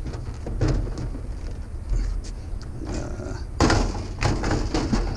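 Aluminum scrap being handled and loaded, with knocks and clanks and a loud clattering crash about three and a half seconds in, over a steady low rumble.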